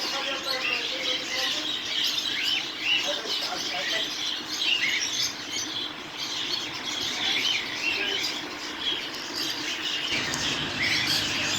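Many small cage birds chirping together, a dense, overlapping chorus of short high chirps.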